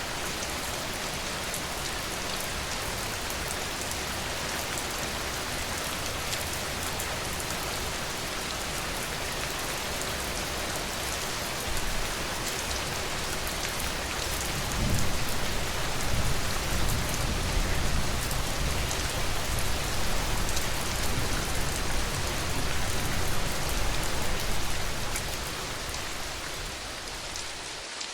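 Steady rain falling, an even hiss of drops. About halfway through, a low rumble swells in beneath the rain for roughly ten seconds, the loudest part of the stretch, then fades away.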